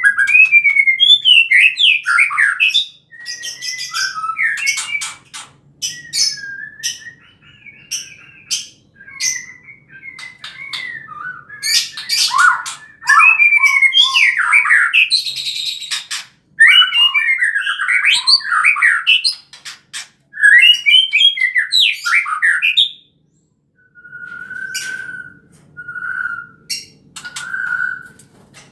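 White-rumped shama (murai batu, Bohorok type) singing: a varied, fast song of rising and falling whistles mixed with sharp clicks, in phrases broken by short pauses. Near the end it gives three short steady whistled notes about a second apart.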